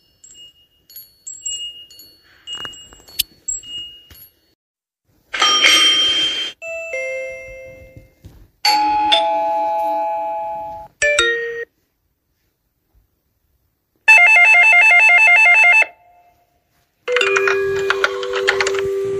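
A run of different doorbell sounds, one after another with short gaps. Light tinkling chimes come first, then a short buzzy ring and two-note ding-dong chimes falling in pitch. A rapid electronic trilling ring follows about two-thirds in, and near the end comes another ringing chime.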